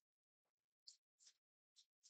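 Tarot cards being shuffled or flicked: four faint, short papery snaps and rustles about half a second apart, with silence between them.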